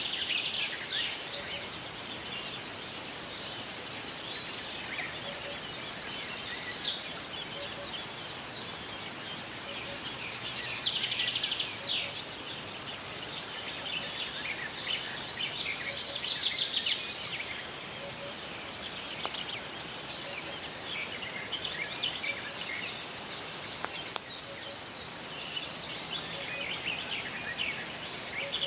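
Birds singing: a high trilling song phrase of a second or two repeats several times, with scattered short chirps from other birds, over a steady background hiss.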